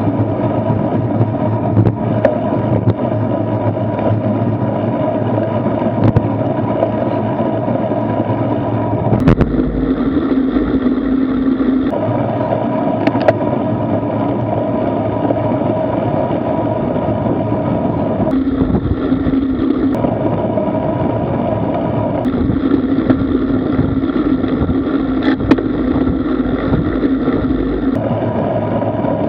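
Steady wind and road rushing picked up by a Garmin Virb action camera mounted on a moving bicycle. The character of the noise switches abruptly several times.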